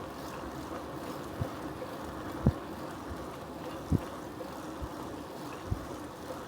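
Steady wind and rolling noise from a bicycle ride, with a faint steady hum and short low thumps about once a second.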